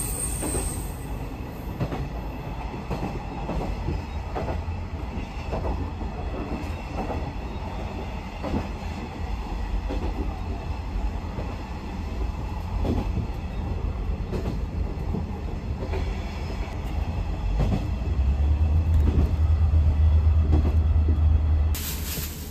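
A diesel railcar running along the line, heard from inside the carriage: a steady low rumble of engine and wheels with irregular clacks from the track. The rumble grows louder for a few seconds near the end.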